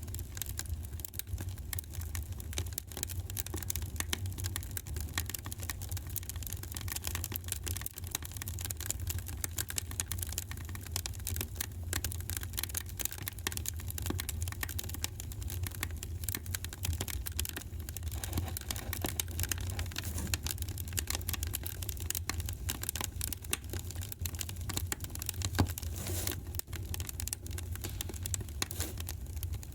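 Wood fire crackling in a fireplace: a constant stream of small, irregular pops and snaps over a steady low rumble, with one louder pop about 25 seconds in.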